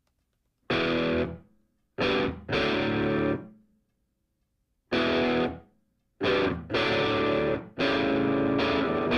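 Distorted electric guitar music: chords struck in short, clipped stabs with dead silence between them, and a longer held stretch near the end.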